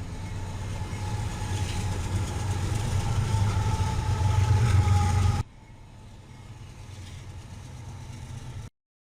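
A train passing a trackside camera, its deep rumble growing louder. About five and a half seconds in it cuts abruptly to a quieter, steady train rumble, which stops suddenly near the end.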